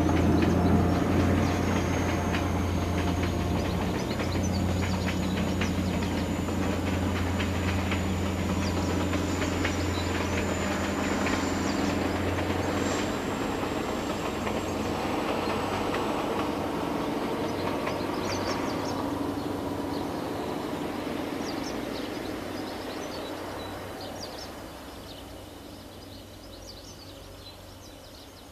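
Diesel-hauled passenger train passing: a steady low engine hum with wheels clicking over the rails and a thin high whine over them. The engine hum drops away about halfway through, and the whole sound fades out over the last ten seconds as the train leaves.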